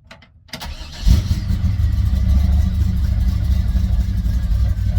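1964 Chevrolet Impala SS's small-block V8 cranked briefly by the starter, catching about a second in and running loud and steady from then on. This is its first start on fresh spark plugs and plug wires.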